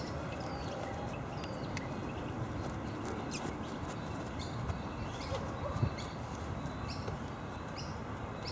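Small birds chirping, short high notes every second or so over a steady outdoor background, with a sharp click about three seconds in.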